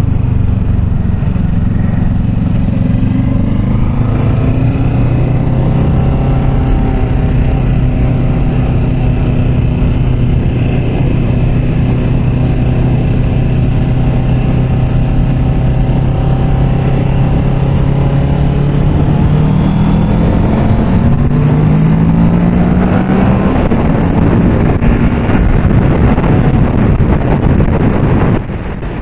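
Kawasaki Ninja 650's parallel-twin engine accelerating hard up to highway speed. Its pitch climbs, drops back, runs steady, then climbs again as the bike speeds up, with rushing wind noise building. The level drops suddenly just before the end.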